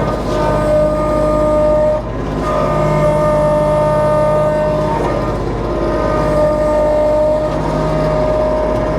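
Kubota B2650 compact tractor's three-cylinder diesel running hard under load while the grapple's hydraulics work, with a steady whine over the engine. The whine shifts in pitch a couple of times as the load changes.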